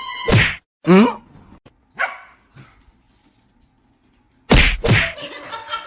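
A dog barks: a falling yelp about a second in and a shorter bark at two seconds, between loud thuds near the start and near the end.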